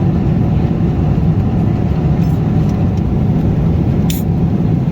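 Steady low rumble inside the cabin of a Boeing 777-300ER airliner: engine and air noise. A brief click comes about four seconds in.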